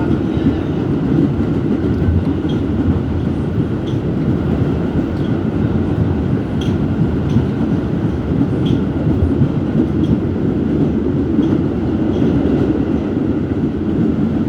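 R211S subway car running at speed, heard from inside the car: a steady rumble of wheels on rail, with faint light ticks every second or so.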